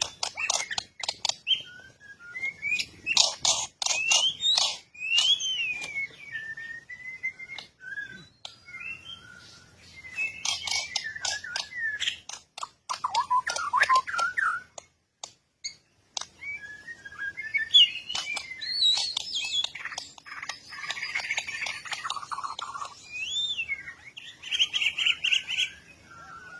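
Bird calls: quick chirps and sweeping whistled notes mixed with rasping chatter, coming in bursts with a short pause about midway.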